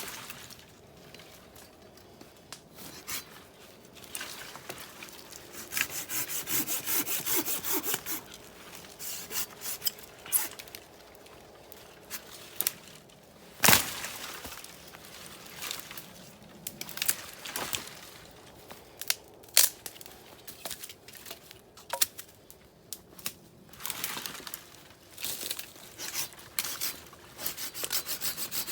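Wood being worked by hand with a blade: runs of quick, even rasping strokes, broken by scattered knocks and one sharp crack about 14 seconds in.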